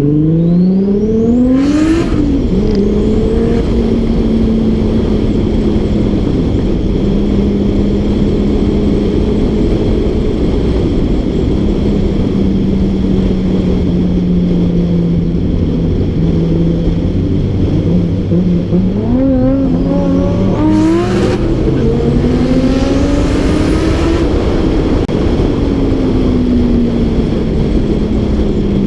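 A car engine revs up hard under acceleration and drops in pitch with a brief sharp sound about two seconds in, as at a gear change. It then runs at a steady cruising speed, before pitch rises again around twenty seconds in and falls away.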